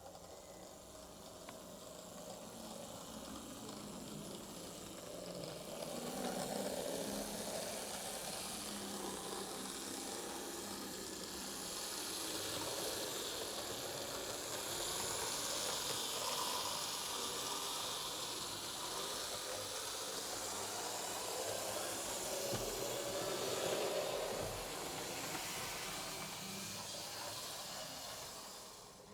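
An HO scale model electric locomotive runs along the track with a steady hissing whir from its motor and wheels on the rails. The sound swells and fades several times as it passes near and away.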